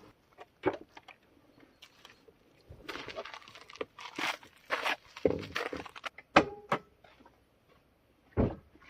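A run of irregular knocks, thunks and scrapes, like things being handled and set down, with the loudest knocks about six and a half seconds in and near the end.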